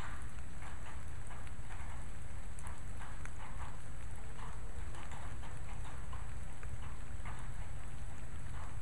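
Steady rain, with individual drops tapping irregularly several times a second over an even wash of rainfall.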